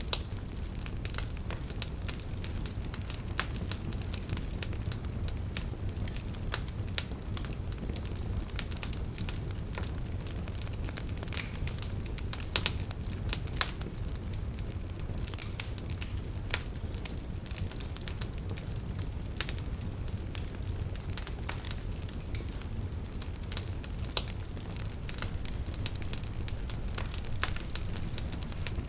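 Wood fire burning in a fireplace: a steady low rumble of flames with frequent irregular crackles and sharp pops, a few louder snaps scattered through.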